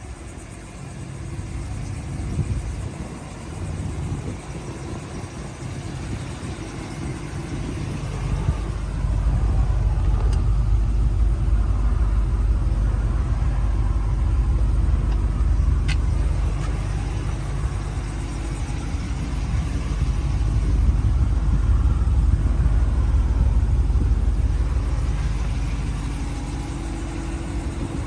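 Pickup truck engine running with a steady low rumble, which grows louder about a third of the way in and eases off near the end.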